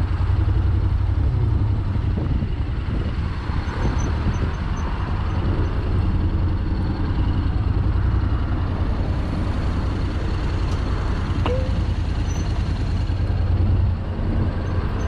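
Honda X-ADV 750's parallel-twin engine running at low speed while filtering between stopped cars, over the steady low hum of the surrounding idling traffic.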